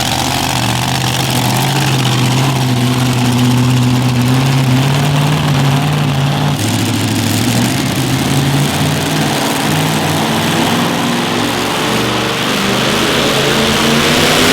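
A pulling vehicle's engine running at low revs, its pitch steady and shifting once about halfway through, then starting to rise into a rev near the end.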